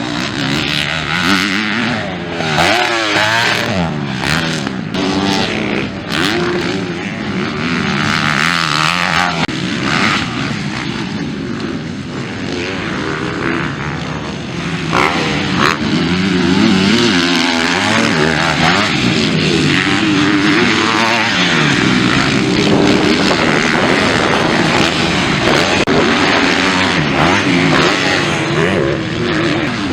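Several motocross bikes racing past, engines revving up and falling back as they shift and brake, overlapping each other.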